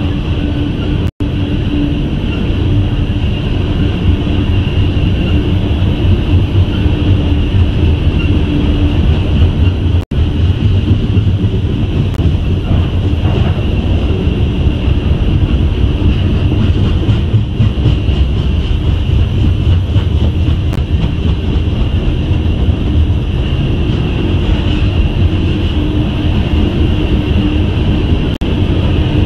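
Loaded coal hopper cars of a freight train rolling past: a loud, steady rumble of steel wheels on rail with a high ring running above it. The sound drops out briefly twice, about a second in and about ten seconds in.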